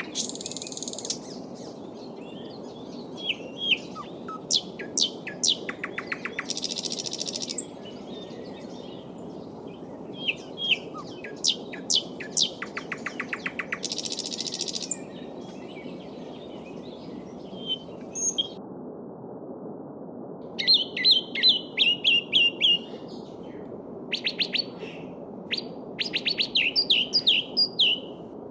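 Small songbirds chirping and singing in quick notes and trills over the steady murmur of a flowing stream, with a fast run of loud repeated notes a little past the middle.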